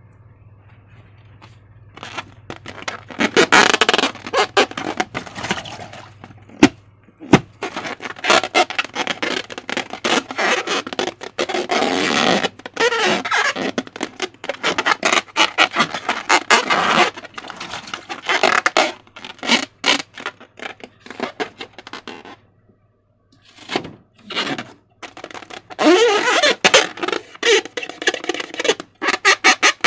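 Slime being squished and worked by hand: irregular wet squelching and crackling, with bending rubbery squeaks now and then, and a short pause about three quarters of the way through.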